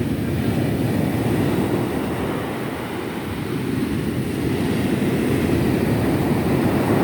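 Sea waves breaking as surf, a continuous rumbling wash that swells about a second in, eases, and builds again near the end.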